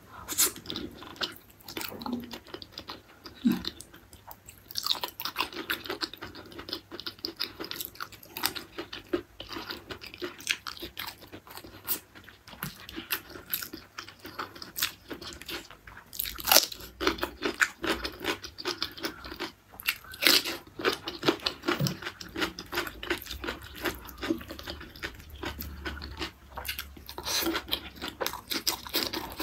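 Close-miked eating: wet chewing and biting of beef tendon curry, with crunching of raw green vegetables, full of small irregular clicks, smacks and crackles.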